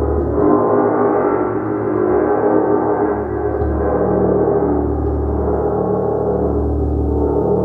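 A gong being played continuously, giving a dense, sustained wash of overlapping tones. A deep low hum beneath it swells and fades every second or two.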